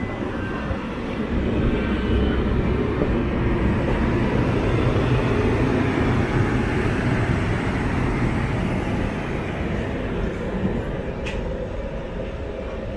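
Passenger express train running at speed, heard from on board: a steady rumble of wheels on the rails and the coach, growing louder about a second and a half in, with a single short click near the end.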